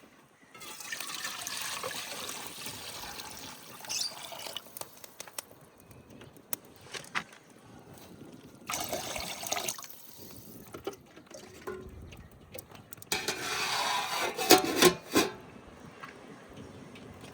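Water being poured and splashed in three bursts: a long one near the start, a short one about halfway, and a louder one a little past the middle, with sharp knocks and clinks in between.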